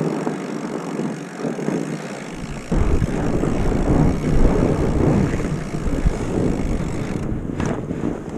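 Wind rushing over the microphone with rolling noise from a bike being ridden on a trail. About two and a half seconds in it gets louder, with a heavy low rumble.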